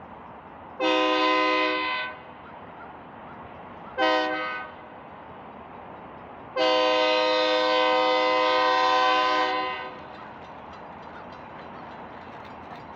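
Diesel locomotive air horn sounding a chord in three blasts: long, short, then a longer one of about three seconds. This is the tail of the long-long-short-long grade-crossing signal. A steady rumble from the moving train runs beneath and between the blasts.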